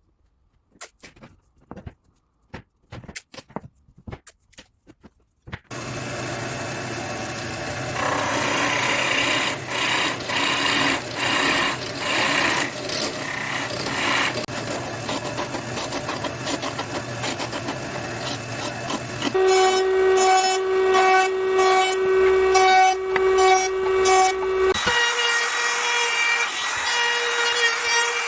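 Woodworking shop sounds: a string of sharp taps and clicks on wood, then a power tool running continuously on wood, its pitch stepping to a new steady tone twice.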